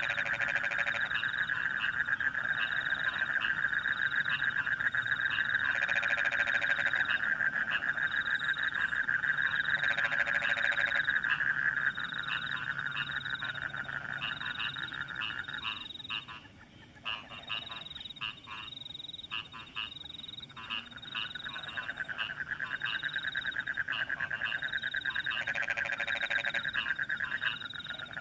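Rice-paddy frogs and crickets calling together after rain. A dense, continuous trilling chorus runs under short high chirps repeating about once a second, with louder single croaks now and then. The trilling thins out for a few seconds a little past halfway, then comes back.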